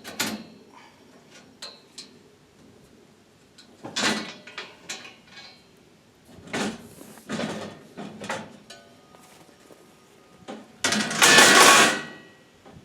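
Knocks and clatters of a panel being taken off a small utility cart, ending in a louder rattling scrape of about a second near the end.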